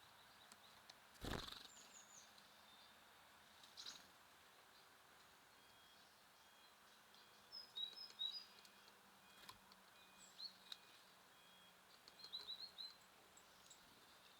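Small songbirds at a feeder giving short, high chirps in a few scattered bursts, faint over a steady hiss. A sharp knock about a second in is the loudest sound, with a softer one a few seconds later.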